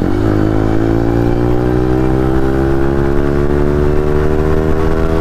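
Yamaha 155 cc single-cylinder motorcycle engine accelerating hard in gear. Its revs drop briefly at a gear change right at the start, then climb steadily, with wind noise on the microphone.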